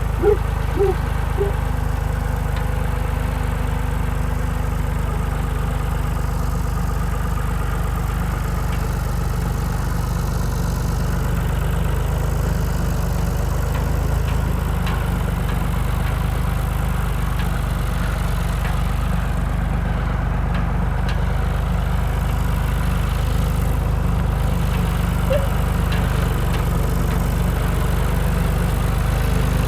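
Ford 3930 tractor's three-cylinder diesel engine running steadily, with a few brief pitched sounds in the first second or so.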